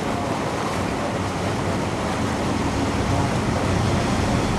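Steady outdoor rush of wind and water with a low rumble underneath, growing slightly louder toward the end.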